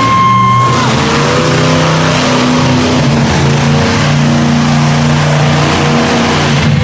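Monster truck engine revving hard, its pitch climbing and dropping, over a loud wash of arena noise. A steady high tone cuts off under it about a second in.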